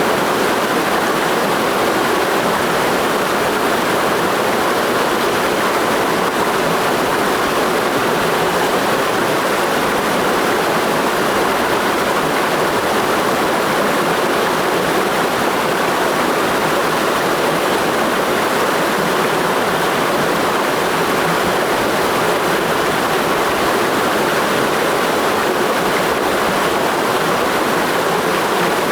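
Mountain stream rushing steadily over rocks, a loud, even wash of water with no breaks.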